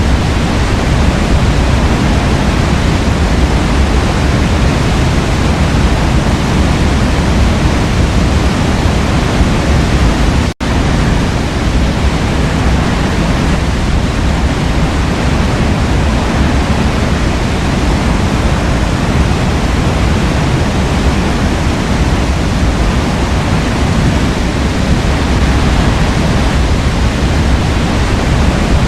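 Waterfall in a forest, water pouring and rushing in a steady, dense roar heavy in the low end. A split-second dropout about ten seconds in breaks it once.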